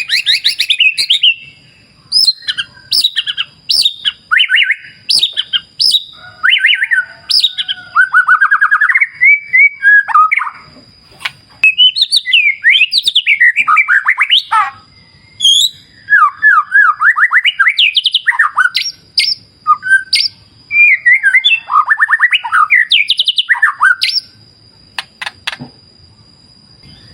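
White-rumped shama (murai batu) singing: long, rich runs of fast, varied whistled phrases, trills and chips with short pauses between them. A faint, thin, steady high tone runs underneath.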